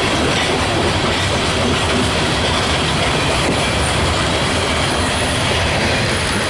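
Loaded coal train rolling past close by: a steady, loud rumble and rush of steel wheels on the rails.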